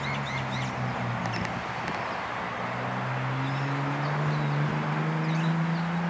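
Scattered short bird chirps, mostly in the first second and a half and again near the end, over a steady background hiss and a low drone that rises slightly in pitch.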